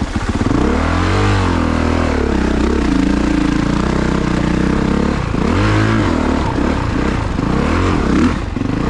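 A Honda CRF450RX dirt bike's single-cylinder four-stroke engine revving up and down repeatedly as the throttle is worked on a rough hill, with several rising and falling swells in pitch.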